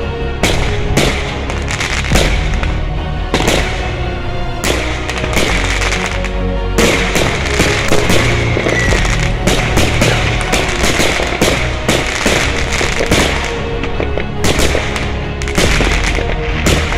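Fireworks going off in a rapid, irregular run of bangs and crackling, with music playing underneath.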